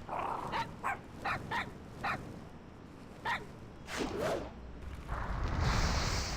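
A small animal yipping: about seven short, sharp yips over the first four seconds. From about five seconds in, a steady rushing noise.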